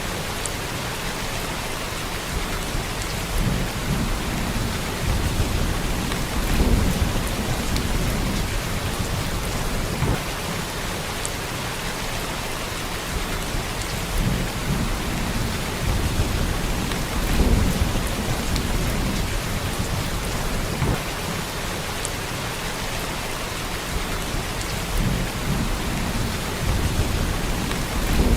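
Steady heavy rain, with deep low rumbles swelling and fading several times.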